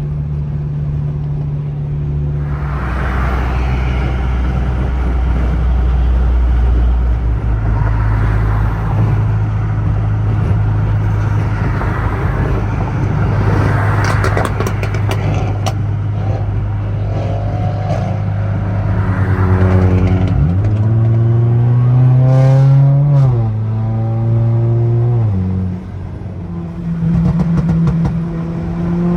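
Car engine running under way with road noise. About two-thirds through, the engine pitch rises as it accelerates, then drops in two steps as it shifts up through the gears.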